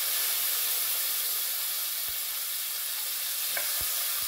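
Diced tomatoes sizzling in hot vegetable oil in a pot, a steady hiss, while a wooden spoon stirs them, with a couple of faint knocks of the spoon against the pot.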